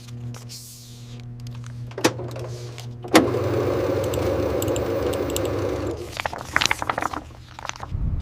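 A steady low mechanical hum with metallic clicks and jingling. A sharp clank comes about three seconds in, and a louder rattling din follows for about three seconds.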